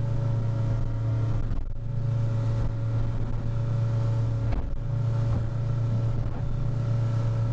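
Small boat's engine running steadily at cruising speed while the boat runs through swells. The drone drops out briefly twice, and there are a few faint knocks.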